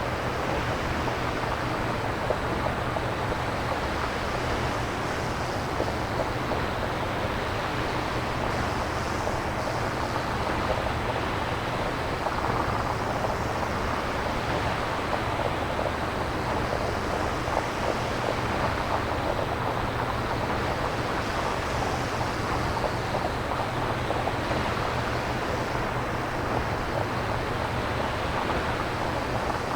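Synthesizer-generated nature-style noise, made without samples: a steady rushing wash with slow, gentle swells, like surf or wind.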